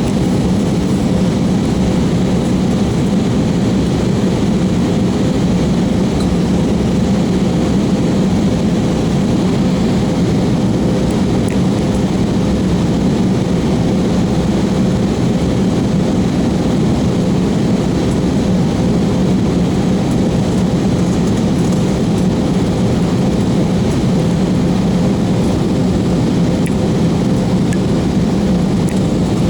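Steady cabin drone of an airliner in flight during descent: engine and airflow noise with a steady low hum and a fainter higher tone, unchanging throughout.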